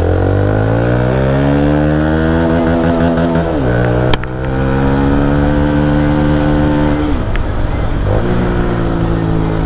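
Motorcycle engine accelerating through the gears: its pitch climbs steadily and drops at two upshifts, about three and a half and seven seconds in, before climbing again. There is one sharp click a little after the first shift.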